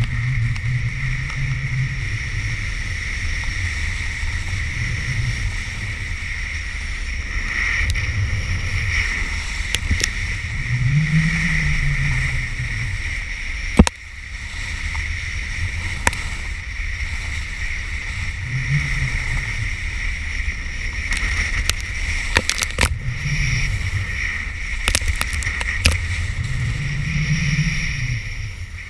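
Wind rumbling over a microphone during a ski run, swelling and easing every few seconds, over a steady hiss. A sharp knock comes about 14 seconds in.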